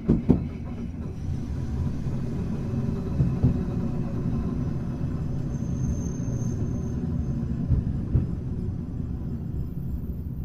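Hankai Electric Tramway tram No. 351 running, a steady low rumble broken three times by a pair of sharp knocks, like wheels crossing rail joints.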